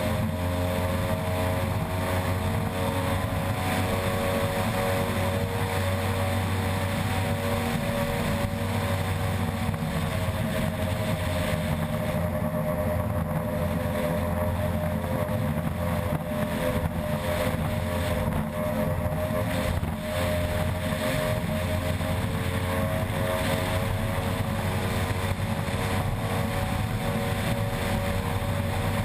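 Unlimited-class outboard racing ski boat's engine running hard and steadily at speed, its pitch shifting only slightly.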